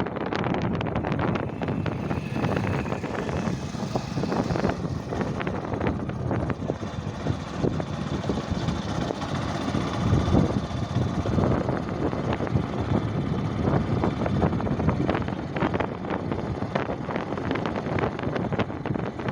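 Wind buffeting the microphone on a moving bike, a steady low rumble with frequent crackles, over road and vehicle noise.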